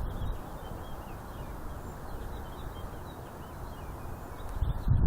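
Many short bird chirps, faint and quick, over a low rumble of wind on the microphone. The rumble swells briefly near the end.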